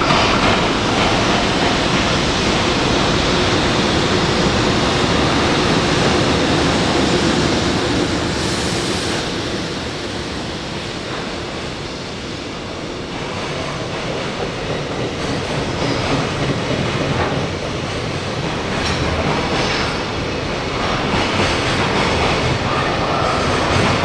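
Freight train of tank-container wagons rolling past: steady wheel-on-rail noise with clatter over the rail joints, easing a little midway and building again.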